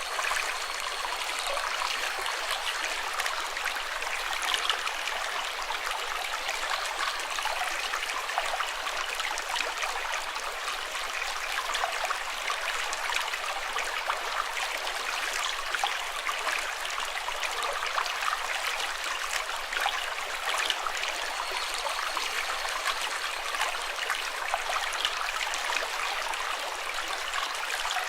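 Flowing water running steadily, full of small splashes and trickles, like a small stream.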